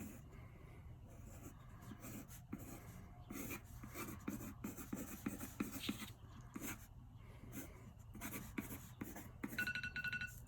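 Quick, scratchy strokes of a pen on paper as a bird is sketched against the clock. Near the end, an electronic timer sounds a string of rapid beeps, marking the end of the 10 seconds.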